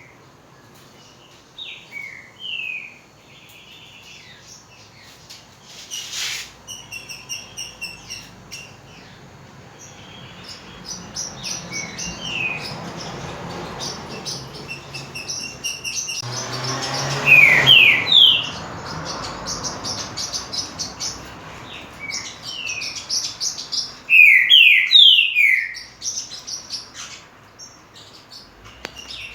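A green-winged saltator (trinca-ferro) singing: short, clear whistled phrases of sliding notes, loudest in two runs around the middle and about three-quarters through, with softer chattering notes in between.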